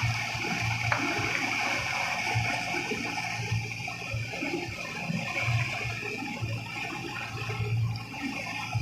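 Steady rushing of water, a hiss that runs throughout, with a low hum that swells in and out several times.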